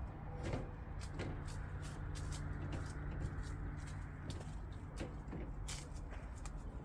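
A motor running steadily at a constant speed, with many irregular sharp clicks and knocks over it throughout.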